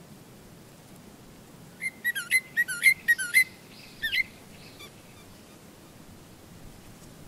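A bird calling: a quick run of about seven whistled notes, each swooping down and back up in pitch, then a short pair of notes half a second later, over a faint steady hiss.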